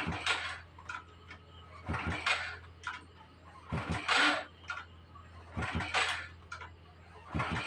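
Honda motorbike being kick-started again and again, a kick about every two seconds; each stroke gives a thud and a short rush as the engine turns over but does not fire.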